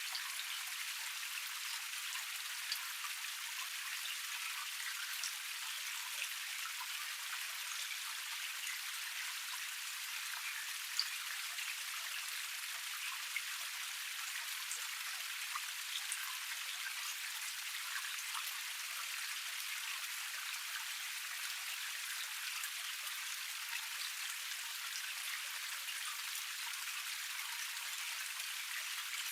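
Small waterfall cascade splashing and trickling steadily over rocks, with scattered drip-like splashes and an occasional sharper splash.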